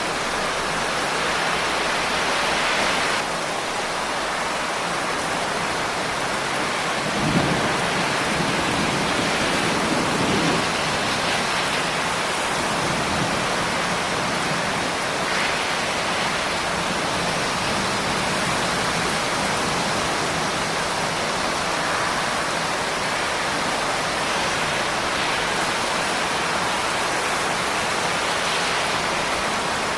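Steady rain falling. About seven seconds in, a low rumble of thunder rolls for a few seconds.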